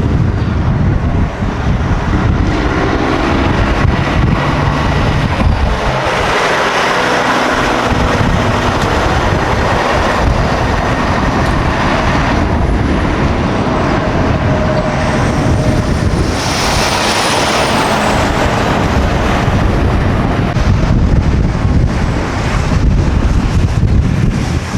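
Road traffic with semi trucks passing, and wind rumbling on the microphone. The sound swells twice as vehicles go by, a few seconds in and again about two-thirds of the way through, the second time with a faint high whine.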